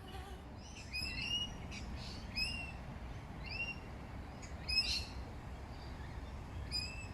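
A bird calling: a series of short notes that each rise and then level off, repeated about once a second.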